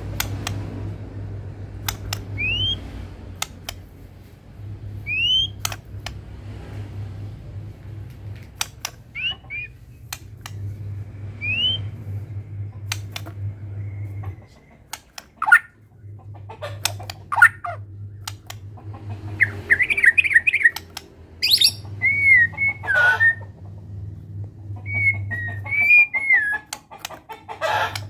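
White-rumped shama of the Medan type singing: sharp clicks and short rising whistles, then fast warbling phrases in the second half. A low hum comes and goes behind it.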